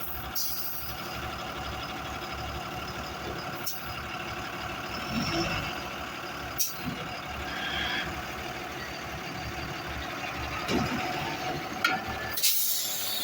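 Yard truck's diesel engine running steadily, with a few brief sharp clicks or knocks now and then.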